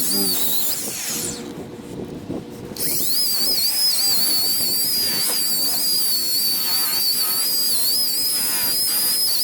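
DeWalt electric buffer running with a high, wavering motor whine while compounding oxidized gelcoat. It stops about a second and a half in and spins back up about a second later.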